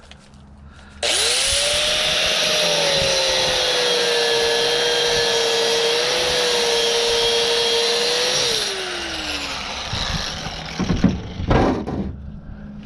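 A handheld electric power tool starts abruptly about a second in, runs steadily at speed with a high whine for about seven seconds, then is switched off and winds down in pitch. A few sharp knocks follow near the end.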